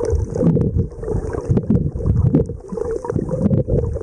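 Muffled underwater sloshing and churning of sea water around a submerged Olympus TG-5 camera, picked up through its sealed built-in microphones. The sound sits low and dull, with frequent small clicks and knocks.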